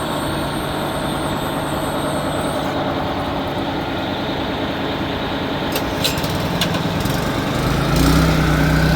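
1988 Amertek 4x4 fire truck engine running steadily at idle. A few light clicks come about six seconds in, and near the end the engine note grows louder and deeper.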